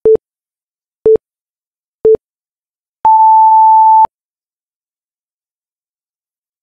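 Interval timer countdown beeps: three short, lower beeps a second apart, then one second-long, higher beep marking the start of a 20-second Tabata work round.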